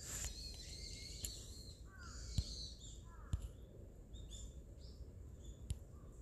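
Birds chirping: many short, quick calls, some sliding up or down in pitch, over a faint outdoor hush. A few sharp clicks cut in, the loudest about two and a half and three and a half seconds in.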